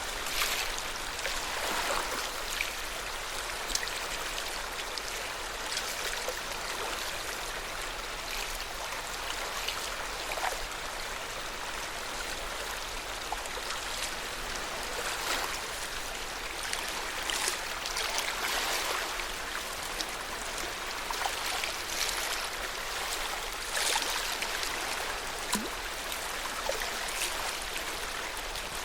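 Water of Lake Yamanaka lapping, with a steady wash broken by small irregular splashes every second or two.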